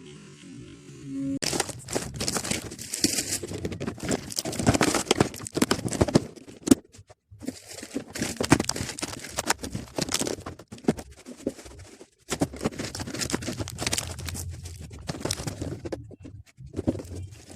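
Irregular rustling and clattering of food packets and containers being handled, broken by two short pauses. A few seconds of background music end about a second and a half in.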